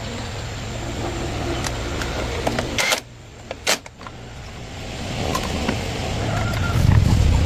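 Motorcycle engine running with a steady low rumble. About three seconds in the sound drops out abruptly, with a couple of sharp clicks, then the engine sound returns and grows louder.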